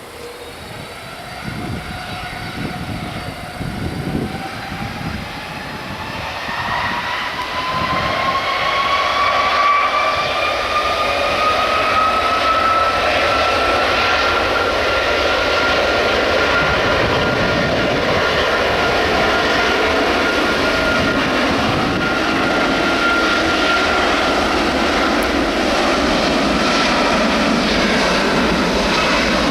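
Jet airliner's engines spooling up: a whine rising in pitch and growing louder over about the first ten seconds, then a loud steady engine noise.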